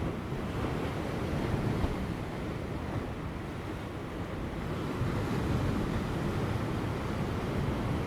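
Ocean waves breaking on rocks: a continuous deep surf wash that swells and eases, growing louder about five seconds in. Light wind blows across the microphone.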